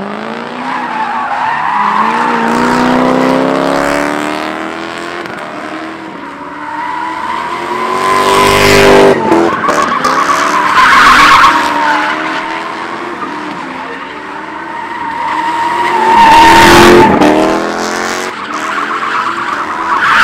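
Cars drifting at a street sideshow: engines revving up and down under hard throttle while the tires squeal in a long, steady screech. It swells loudest three times as a car sweeps close.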